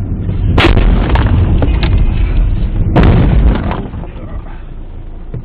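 Car collision heard from inside a vehicle: two loud crashing impacts about two and a half seconds apart, each followed by brief clattering, over a steady heavy road rumble.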